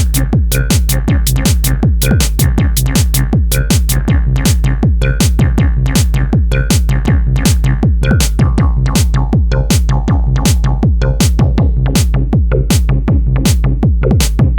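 Techno played on an Elektron Digitone 2 synthesizer: a fast, even run of electronic drum hits over a sustained deep synth bass.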